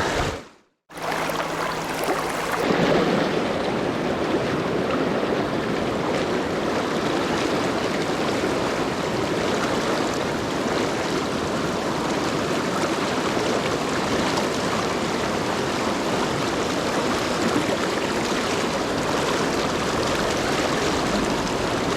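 Steady rushing of a fast mountain river's current. It cuts out briefly just under a second in.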